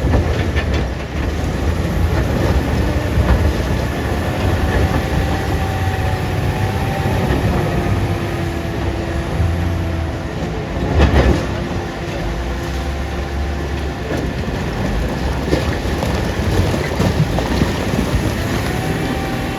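Caterpillar 966D wheel loader's diesel engine running hard under load, with a low rumble and hydraulic whines that rise and fall as it works. A single heavy bang comes about eleven seconds in.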